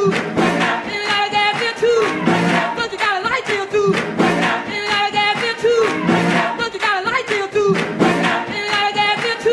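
Electronic dance music from a club DJ set: a looped sung, choir-like vocal phrase repeating about every two seconds, without heavy bass.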